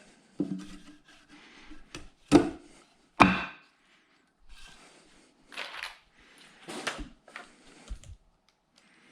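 Scattered knocks, scrapes and rustles of wooden building materials and tools being handled, with two sharp knocks a little over two and three seconds in.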